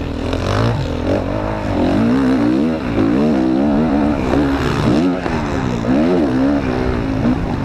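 Motocross bike engine at race pace, its pitch rising and falling again and again as the throttle is opened and shut and the gears change.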